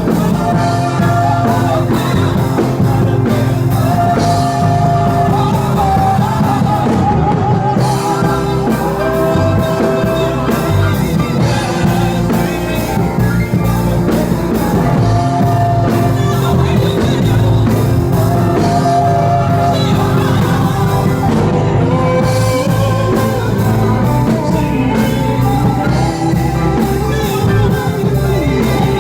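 Band music with a lead vocal singing long held, wavering notes over a steady drum, bass and guitar accompaniment.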